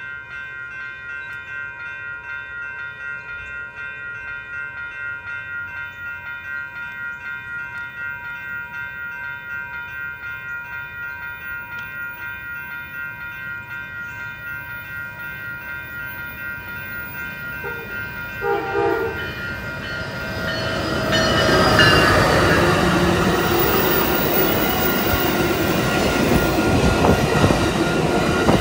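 Railroad grade-crossing warning bells ringing steadily, about two strokes a second. About 18 s in, a short train horn note sounds, and then an Amtrak passenger train approaches and passes, its wheels clacking and its noise swelling loud.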